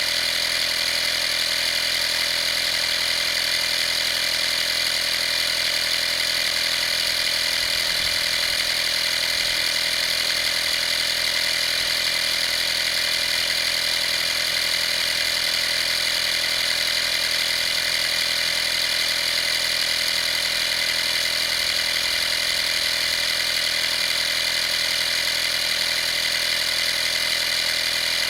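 Vaper 12 V portable air compressor (model 55203) running steadily, its motor and pump holding one constant hum.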